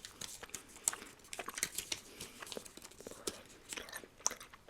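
Snack wrapper crinkling and tearing in irregular short crackles as a piece of Pepsi-flavoured gum is opened.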